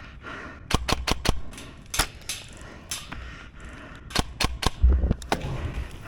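Airsoft guns firing: about a dozen sharp cracks in irregular clusters of single shots, with a low thump about five seconds in.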